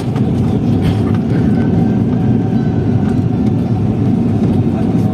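Cabin noise inside a Boeing 747-400 around landing: a loud, steady low rumble from the engines and the airflow or runway, with light rattles of cabin fittings.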